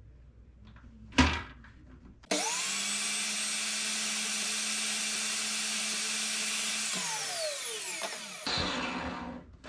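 A knock, then an electric saw switched on, coming up to speed at once and running steadily for a few seconds. It is then switched off, its pitch falling as the blade spins down.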